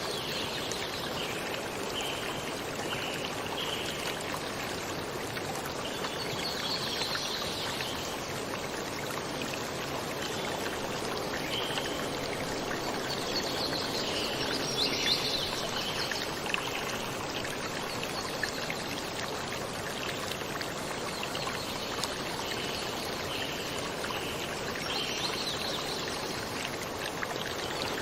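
Stream water running steadily, with short high chirps coming and going over it.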